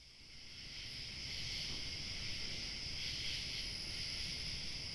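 Steady chorus of insects, fading in over about the first second and then holding even.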